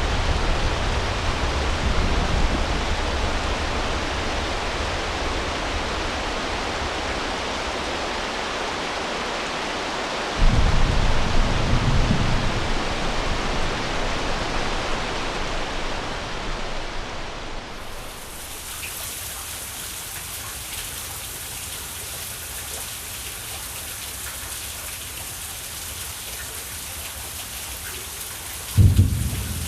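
Storm sound effect: steady rain, with a sudden thunderclap about ten seconds in that rumbles away over several seconds. A little past halfway the rain turns to a thinner, hissier patter, and another thunderclap breaks in just before the end.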